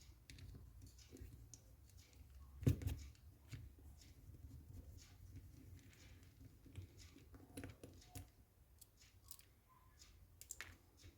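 Faint clicks and light taps of small parts of an airsoft M14 being handled during disassembly, with one louder knock about two and a half seconds in.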